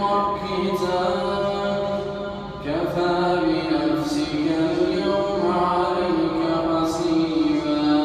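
A male reciter chanting the Quran in melodic tajweed style, drawing out long held notes with ornamented glides. One phrase ends about two and a half seconds in and the next begins at once.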